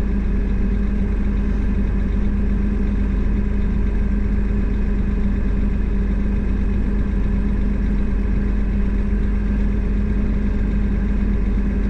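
Steady engine and road drone of a truck cruising, heard from inside the cab: a constant low rumble with an even hum, with no change in pitch or level.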